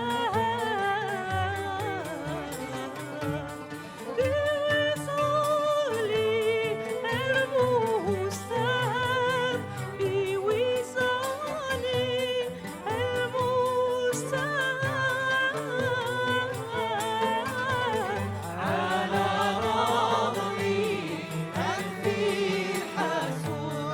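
A singer's voice carrying a melody with wavering, ornamented turns over instrumental accompaniment; the sound grows fuller for a couple of seconds near the end.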